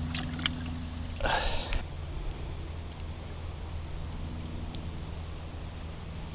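A cast live sardine bait landing in the water with a short splash about a second in, over a steady low hum and a few light clicks of fishing gear.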